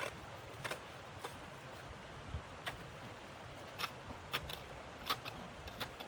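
Wood fire crackling: sharp, irregular pops, about ten across a few seconds, over a steady background hiss.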